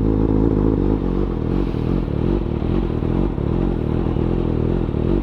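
A 600cc-class sport bike's inline-four engine running steadily, its pitch holding level throughout.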